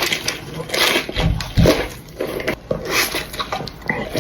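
Close-miked eating sounds: chewing with irregular crackly clicks and scrapes, and a couple of low thuds about a second in.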